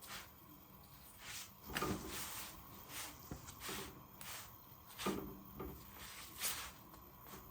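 Household handling sounds: a run of short rubbing strokes with a few light knocks, about two seconds in and twice near the end.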